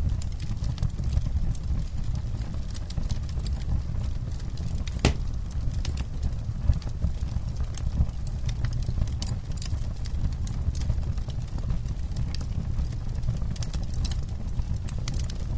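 Campfire crackling: irregular sharp pops and snaps over a steady low rumble, with one louder pop about five seconds in.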